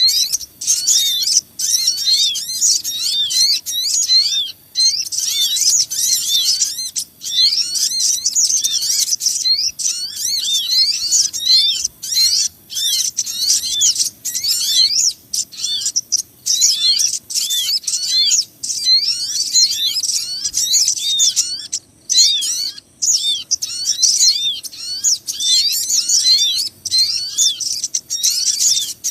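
Dense, noisy chorus of many small birds, sogon and others, chirping and twittering in quick high notes with hardly a gap. It is a bird-lure (pikat) recording made to draw small birds in.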